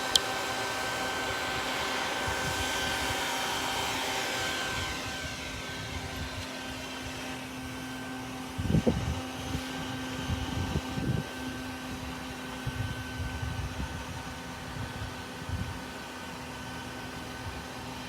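Bee vacuum running steadily: a small vacuum motor drawing a honeybee swarm into a collection bucket. It drops a little in pitch and level about four to five seconds in, and there are some low bumps in the second half.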